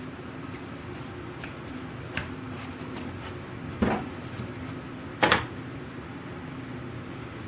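Two sharp wooden knocks, about a second and a half apart, with a lighter click before them, from wooden parts of a machinist's tool chest being handled, over a steady low hum.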